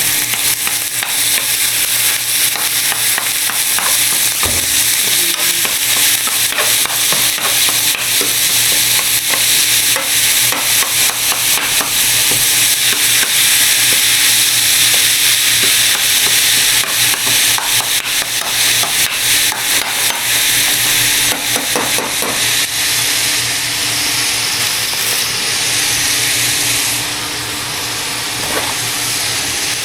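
Ground turkey sizzling in a frying pan while a utensil stirs it, with frequent short scrapes and taps against the pan over the steady frying hiss. A faint steady hum runs underneath.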